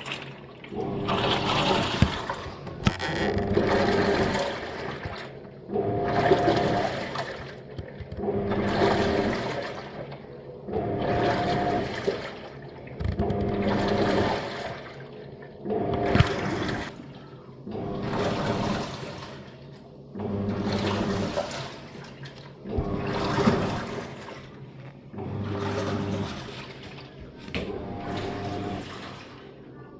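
Living & Co 5.5 kg top-loading washing machine agitating a load: the motor hums in pulses about every two and a half seconds as the wash plate turns one way and then the other, with water sloshing in the tub.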